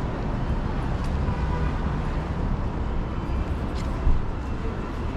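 City street traffic noise, a steady rumble of passing vehicles, with one short knock or bang about four seconds in.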